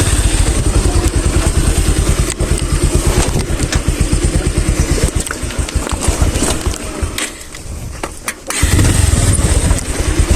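Motorcycle engine running at low speed with a rapid, steady chugging, dropping off briefly about seven seconds in and then picking up loudly again.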